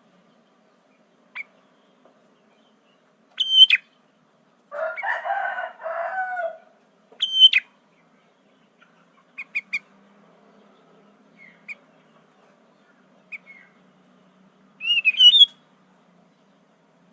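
Sooty-headed bulbul (kutilang) giving short, sharp, high calls a few seconds apart, with a quick run of warbling notes near the end. A longer, lower, harsher call of about two seconds comes around five seconds in.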